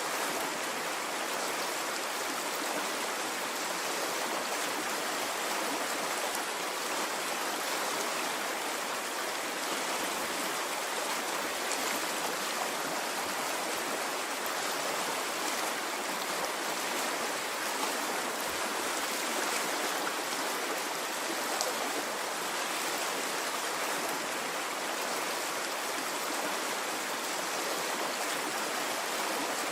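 Running water of a stream, flowing steadily with an even rush and a few faint drip-like ticks.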